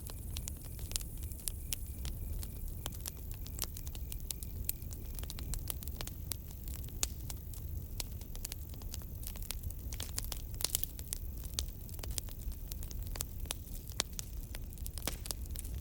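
Campfire crackling: wood burning with a dense, irregular run of sharp pops and snaps over a low steady rumble of the flames.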